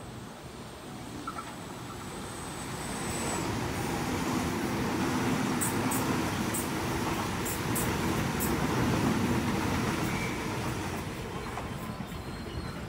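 Sydney Trains double-deck electric passenger train passing along the track beside the platform: the rumble of wheels on rail builds over a few seconds, stays loudest for about six seconds with a few sharp high clicks, then eases off as the train clears.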